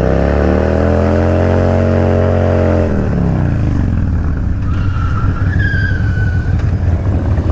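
Motorcycle engine revved up and held at high revs for a few seconds, then easing off. After that comes the rush of the bike moving along, with a faint thin squeal partway through.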